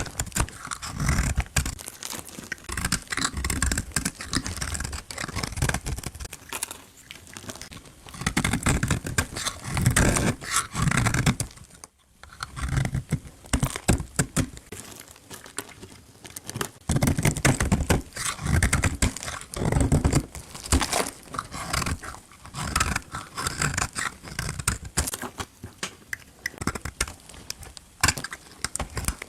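Blade cutting through bar soap: repeated scraping strokes, each thick with small crackling clicks, with a short break about twelve seconds in.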